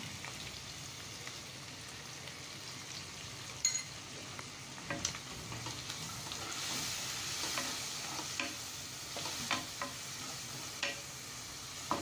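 Oil sizzling steadily in a non-stick kadai as paneer cubes, masala paste and chilli powder fry, with a wooden spatula stirring and knocking against the pan, the knocks coming more often in the second half.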